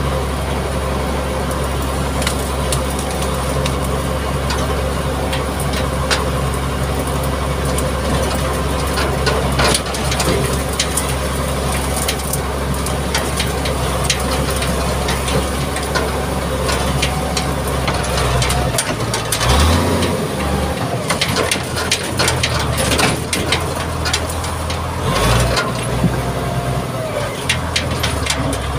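Mitsubishi MG330 motor grader's diesel engine running under load, with frequent crackling and crunching. About two-thirds of the way through, the steady engine note drops away and turns uneven.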